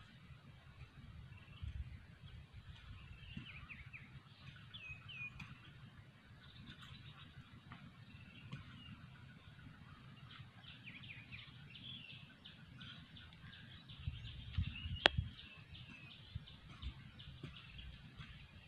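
Small birds chirping with short, quick notes, over a low rumbling noise. One sharp click about fifteen seconds in.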